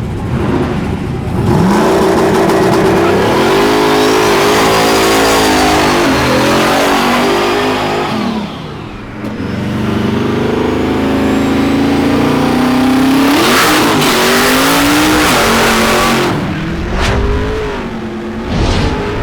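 Big-wheel drag race car engine revving and accelerating hard, its pitch climbing, dropping about eight seconds in, then climbing again. A few sharp cracks come near the end.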